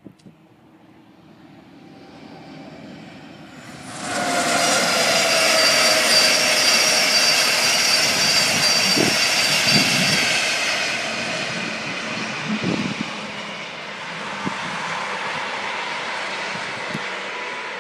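High-speed express passenger train passing at speed: a loud rush of wheels and air with a high whine, swelling suddenly about four seconds in and easing off after about eleven seconds.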